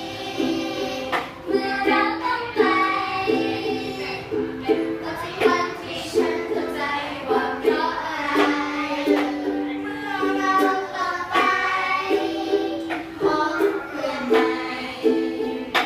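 Song performed with ukulele strummed in a steady chord rhythm and voices singing along.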